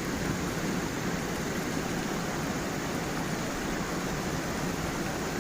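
Stream water running over stones and a small waterfall: a steady, unbroken rush.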